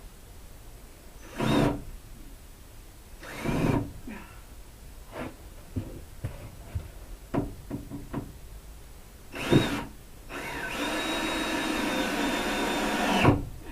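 Ryobi cordless drill drilling a hole: a few short spurts of the trigger, some small knocks and clicks of handling, then a steady run of about three seconds that stops suddenly. The bit is labouring, and its owner suspects it is worn.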